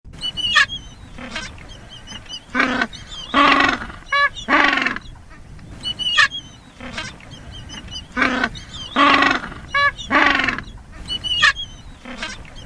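Penguin braying: a run of short harsh calls and longer wavering brays, the whole sequence heard about twice, with faint small-bird chirps behind.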